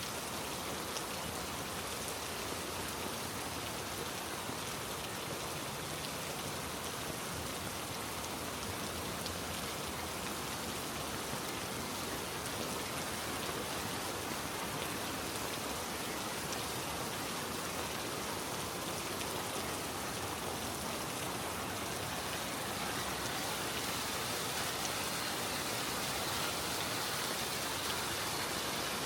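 Heavy rain falling steadily on rainforest foliage and the forest floor, a dense even hiss that grows slightly louder in the last few seconds.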